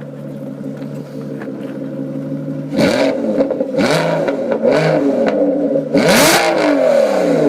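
Aston Martin Vantage GT12's naturally aspirated V12 idling, then revved in quick blips from about three seconds in. Each rev climbs and drops back with a loud exhaust bark, four in all. The last and loudest comes near the end, and its revs fall away slowly.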